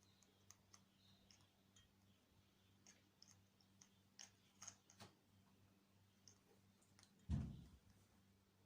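Faint, scattered small clicks and snaps, typical of an African grey parrot picking at and biting neem leaves and stems. One louder dull thump comes about seven seconds in.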